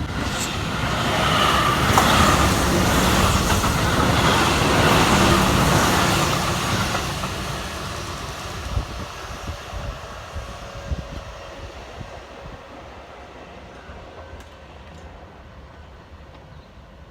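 Keihan electric train passing on the rails, loud for the first several seconds and then fading away, with a few sharp wheel clicks as it recedes.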